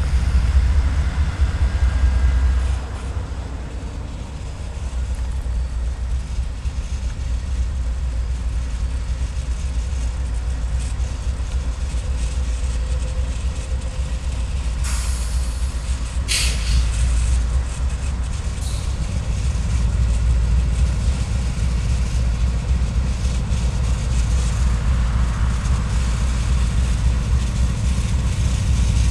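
CSX diesel-electric freight locomotives approaching slowly at the head of a train: a steady low engine rumble, with a short high hiss about halfway through.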